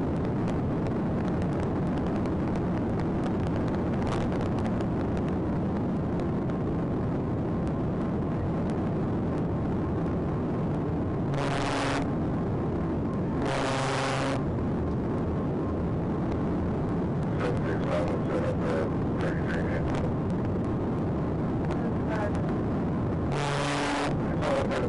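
Sheriff's patrol car running at speed: steady engine and road noise throughout, with brief loud bursts of noise, twice near the middle and once near the end.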